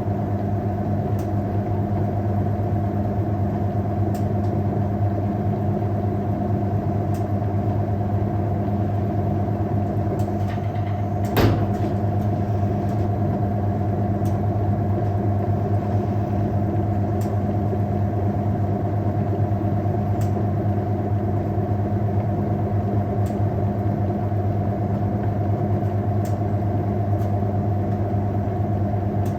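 Hoover 1400 top-loader washing machine running with a steady motor hum. A faint tick comes about every three seconds, and a single sharp knock sounds about eleven seconds in.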